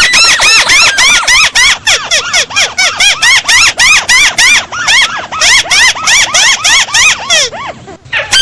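Recorded lure call of a crake (burung tikusan): a loud, rapid series of harsh, arching notes, about five a second, thinning out near the end.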